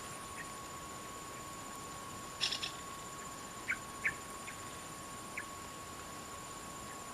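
Wild birds giving a few short, squeaky chirps: a quick run of about four, then single ones spread over the next few seconds, over a steady high-pitched hum.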